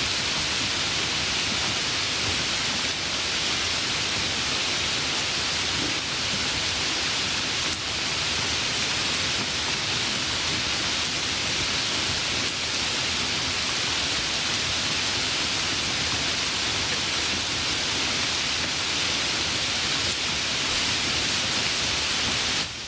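Light rain falling as a steady, even hiss, dropping slightly in level near the end.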